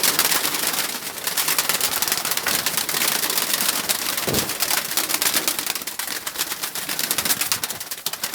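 Pigeons stirring in a loft as birds are caught: a dense, steady clatter of flapping wings and scuffling, with the odd coo.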